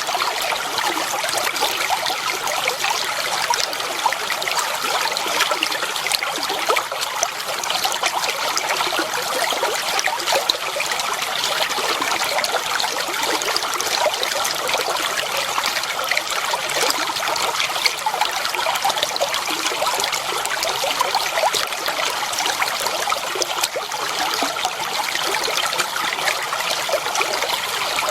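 Clear water flowing and trickling steadily over stones in a shallow stream, a continuous bright babble with many small splashes.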